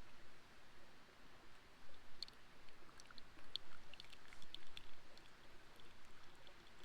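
Wood campfire crackling faintly, with scattered small pops and ticks over a soft steady hiss.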